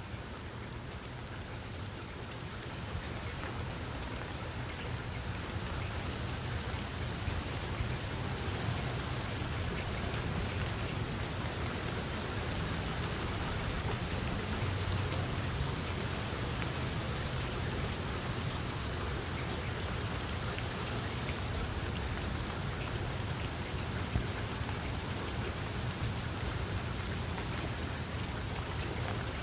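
Steady rain falling, an even hiss of drops with a low rumble underneath, swelling slightly over the first few seconds.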